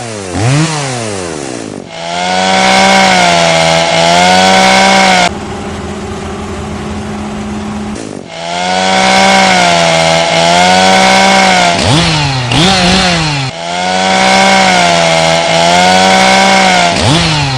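Chainsaw engine running near full throttle with a wavering pitch, revving up and dropping off several times. In the middle a few seconds of steadier, quieter running.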